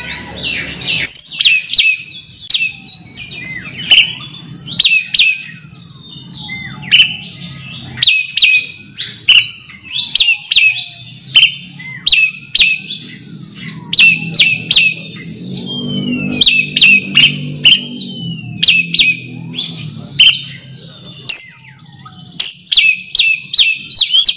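Oriental magpie-robin (kacer) singing loud, sharp whistled notes in quick repeated bursts: the challenging call used to provoke a rival male. A faint low hum sits underneath, strongest around the middle.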